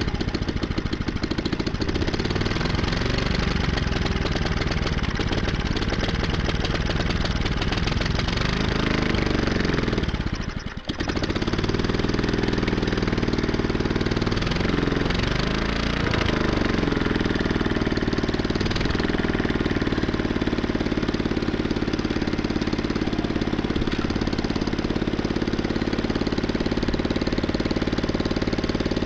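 ULTIMOTOR small air-cooled engine running after a fresh start, firing in a rapid, steady rhythm. About ten seconds in it briefly falls away and picks back up, and its speed then rises and falls for several seconds before settling; it is not yet idled down or tuned.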